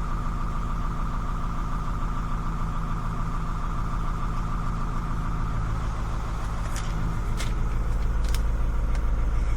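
Grain truck engine idling steadily, with a few sharp clicks near the end.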